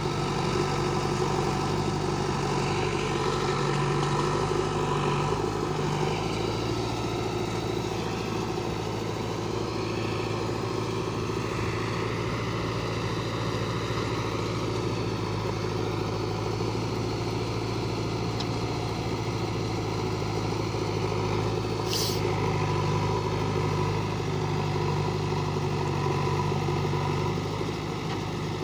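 Tractor engine running steadily at a constant speed, with one short sharp click about three-quarters of the way through.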